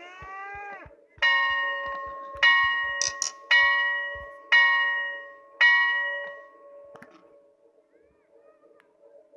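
A bell struck five times, about a second apart, each stroke ringing and fading. Before the first stroke, a short pitched sound swoops up and back down.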